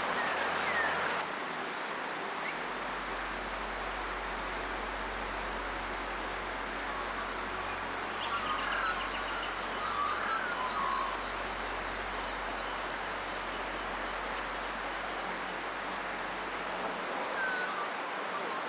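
Steady rushing of a flowing river, with small birds chirping a few times, mostly around the middle and once near the end.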